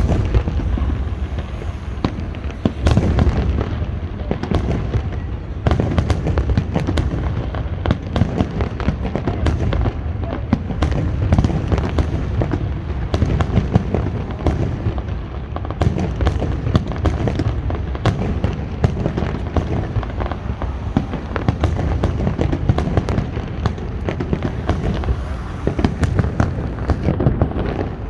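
A large fireworks display going off without a break: a dense, continuous barrage of bangs and crackling over a heavy low rumble.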